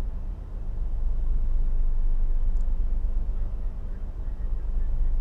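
A vessel's diesel engine running steadily: a low, even drone.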